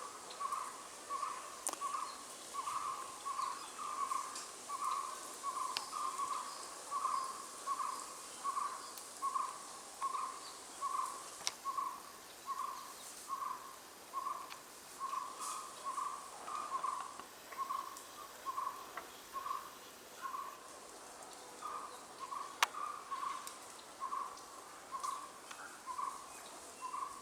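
A bird calling a long, steady series of short, identical notes, all at one pitch, a couple a second, with faint higher chirps from other birds.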